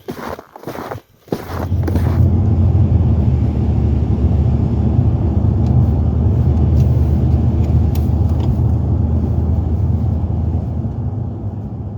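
Motor vehicle engine running steadily with a low rumble, setting in about a second and a half in and fading near the end.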